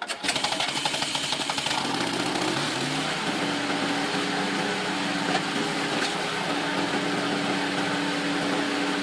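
Gas engine of a 30-ton kinetic log splitter running. Its pitch rises between about two and three and a half seconds in, then holds steady.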